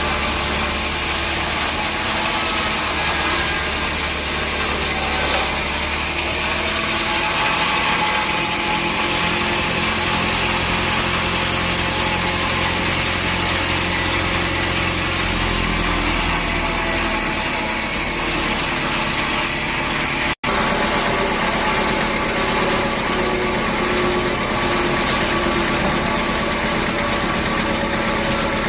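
Sawmill machinery running steadily, with a constant engine note and mechanical noise. The sound cuts out for an instant about twenty seconds in, then carries on as before.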